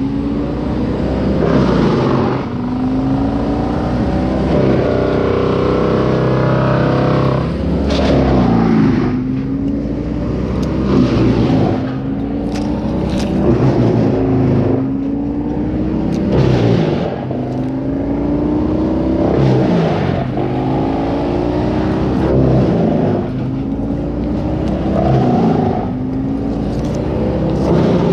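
A petrol engine of tree-removal power equipment running under changing load, its pitch repeatedly dropping and climbing back every two to three seconds, with sharp clicks and knocks through it.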